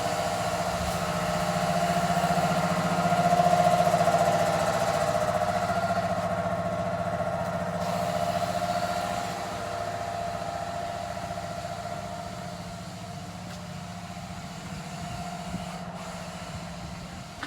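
A steady mechanical hum from a motor or engine, loudest a few seconds in and then slowly fading.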